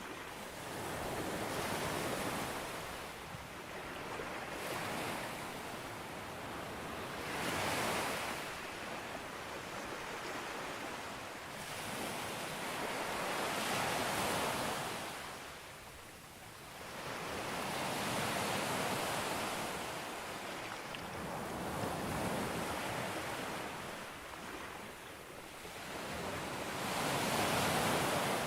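Ocean surf breaking on a beach and washing back, swelling and fading every few seconds, with the biggest wave near the end.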